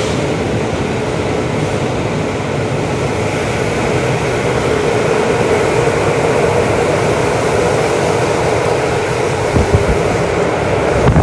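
Tokyu Toyoko Line commuter train running at speed, heard on board: a steady rumble of wheels on rail with a tone that swells through the middle, and a few short knocks near the end.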